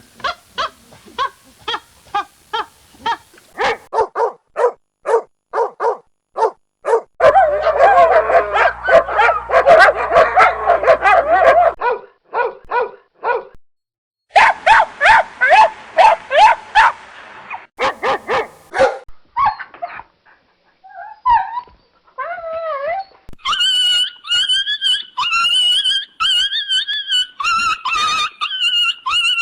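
Dogs barking in a string of separate recordings: short barks about twice a second at first, then two stretches of dense, rapid barking. A few short gliding whines follow, and the end is a long, high, wavering whine.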